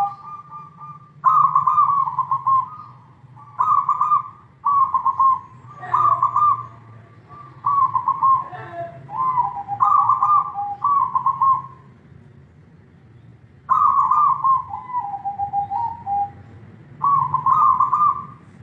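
Zebra dove (perkutut) cooing: a series of rolling, trilled coo phrases at a steady pitch, some stepping down to a lower closing note, with a pause of about two seconds late on.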